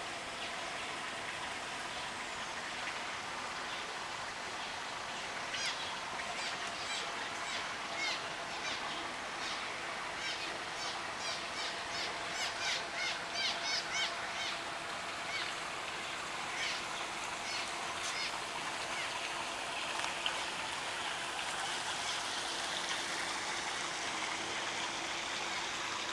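A bird calling in a long run of quick, short, high chirps for roughly ten seconds, over a steady outdoor hiss.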